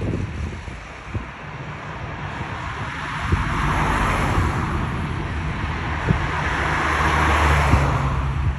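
Jet airliner noise from an Airbus A321neo's CFM LEAP-1A engines on approach to land, a rushing roar that swells over several seconds and is loudest near the end, with a low hum underneath.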